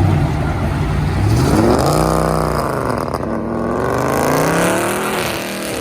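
Turbocharged car engine accelerating hard in a pull-out. The engine note climbs steeply about a second and a half in, drops back, climbs again and falls away near the end.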